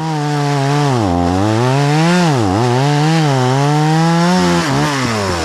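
Two-stroke chainsaw running at high revs, its pitch sagging and recovering several times as if loaded in a cut, then dropping off near the end.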